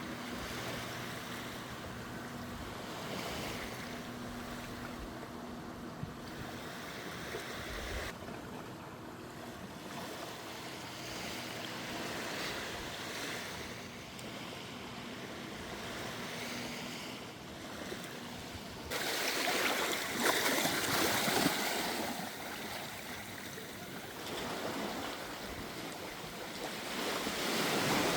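Steady wash of sea waves with wind on the microphone. A low steady hum lies under it for the first two-thirds. About two-thirds through, the sound changes abruptly to a louder rush of surf.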